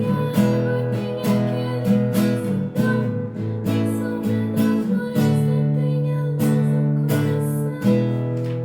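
Acoustic guitar strumming chords, about one strum a second, with no voice over it; the sound cuts off at the end.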